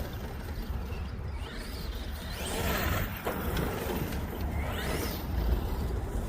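Arrma Outcast 8S RC truck's brushless motor whining up and back down in pitch twice as the truck speeds up and slows, under steady wind noise on the microphone.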